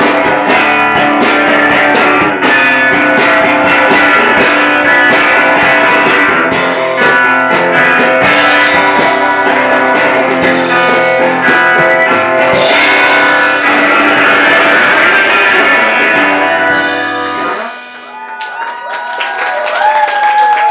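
Live rock band with guitars playing an instrumental ending without vocals; the music stops about 17 seconds in. The audience then starts clapping and cheering.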